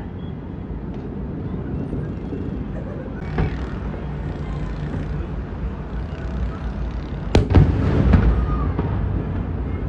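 Fireworks bursting: a sharp bang about three and a half seconds in and a louder bang about seven and a half seconds in, each followed by rumbling, over a steady low rumble.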